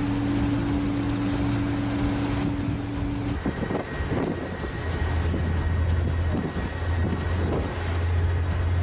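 Steady low machinery hum under a rushing wind noise on the microphone; the hum drops to a lower pitch about three and a half seconds in.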